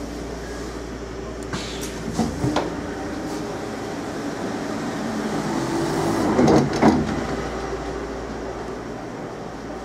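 A stationary Class 230 D-Train unit running with a steady low hum from its Ford diesel engines and equipment. A few light clicks come about two seconds in, and two sharp knocks near seven seconds in are the loudest sounds.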